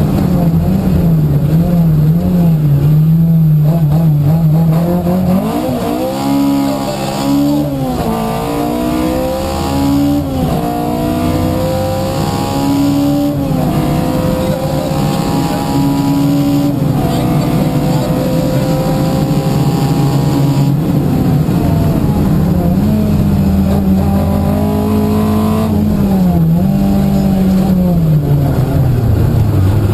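Opel Kadett 2.0E rally car's four-cylinder engine at full throttle, heard from inside the car: the revs climb and break for quick upshifts several times in the first half, then run at a steadier, wavering pitch and drop near the end.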